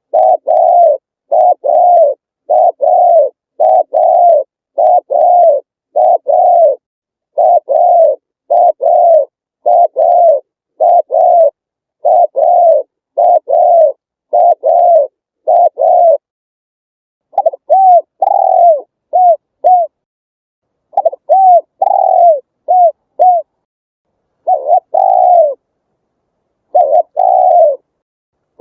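Spotted dove cooing: a long run of short, mellow coos, about one a second, each note rising and falling in pitch. After about sixteen seconds the series breaks into shorter phrases with pauses between them, and some notes are clipped and brief.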